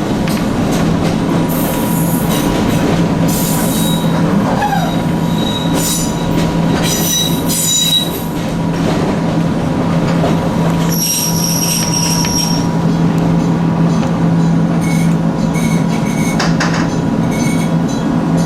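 Echizen Railway electric train running along the line, with a steady motor hum and clicks from the wheels and track. High-pitched wheel squeals come and go, the longest about two-thirds of the way through.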